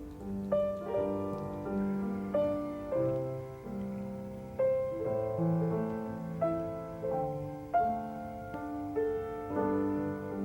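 Solo piano background music: a slow melody of single struck notes over sustained lower notes, a new note sounding roughly every half second to second.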